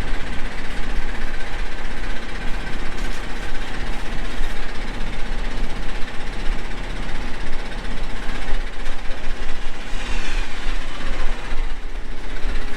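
Vehicle engine idling close by, a steady, rough rumble.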